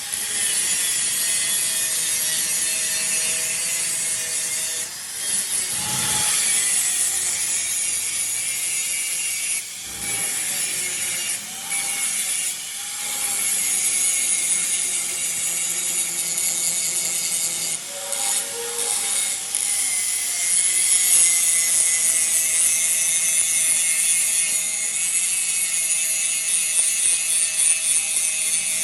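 A power tool working metal: a steady, harsh hiss with a motor tone that wavers in pitch. It breaks off briefly four or five times.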